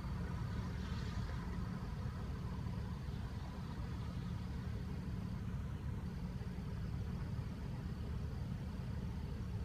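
Car engine idling, a steady low hum with no change.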